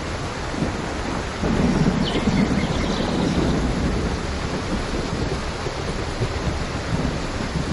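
Steady heavy rain with a low rumble of thunder that swells about a second and a half in and slowly fades.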